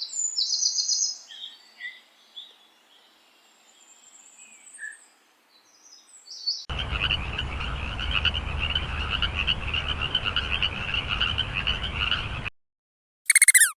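Birds chirping and calling in short high notes for about six seconds, then a dense chorus of croaking frogs for about six seconds that cuts off suddenly. Near the end a run of quick, falling, repeated calls begins.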